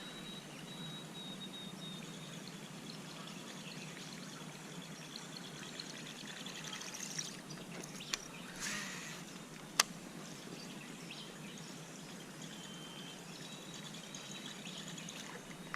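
Faint trickling water with thin, high whistled bird calls, and one sharp click about ten seconds in.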